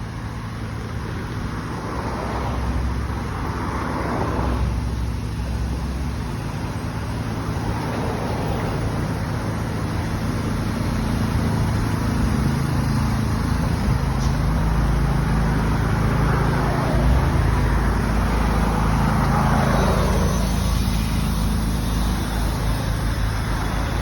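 Motor vehicle running: a steady low engine rumble with road noise that swells and eases several times.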